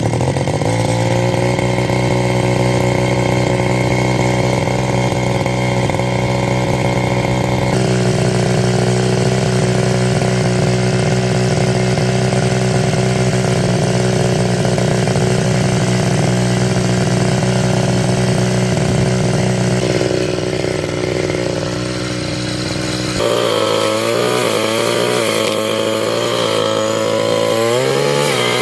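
Tasco 328 two-stroke brush cutter engine running loud and steady at high speed; about 23 seconds in its pitch starts to waver up and down as the load and throttle change.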